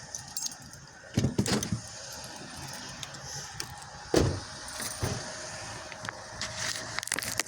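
Scattered small clicks and rattles, with a dull knock just over a second in and a heavier one about four seconds in.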